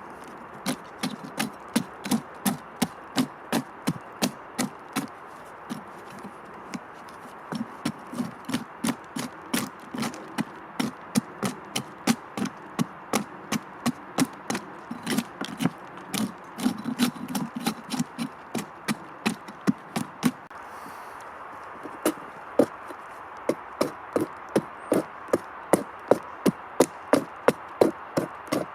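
Steady, even knocking on wood with a hand tool, about two to three sharp strikes a second, with a short pause about 21 seconds in before the strikes resume.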